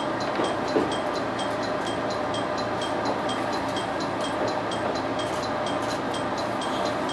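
Diesel railcar pulling slowly out of a station, heard from the driver's cab: a steady engine and running noise, with a high tick about twice a second. There is a short knock just under a second in.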